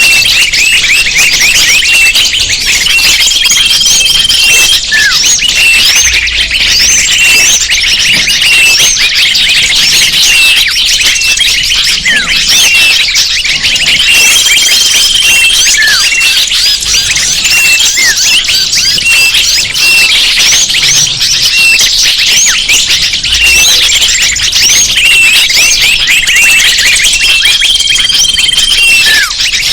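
Bird-lure recording of a loud, dense chorus of many small birds chirping and twittering at once, a frantic flock-call mix used to draw birds in. A steady high trill about a second long recurs roughly every 12 seconds.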